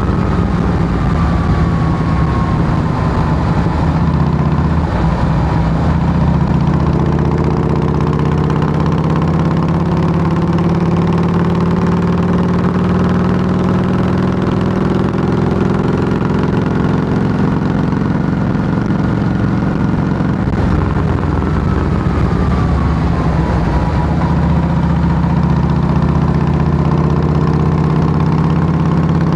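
2008 Harley-Davidson Heritage Softail Classic's Twin Cam 96 V-twin running loud through Samson fishtail true dual exhaust pipes. The engine note climbs slowly, holds, then sinks again about two-thirds of the way through.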